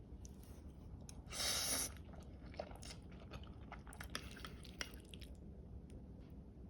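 Close-up eating of the finished cherry tomato pasta: soft chewing with scattered small clicks, and a brief louder noisy sound about a second and a half in.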